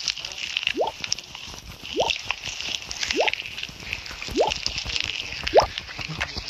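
Water-drop plinks, each rising quickly in pitch, repeating evenly about every second and a quarter over a steady hiss.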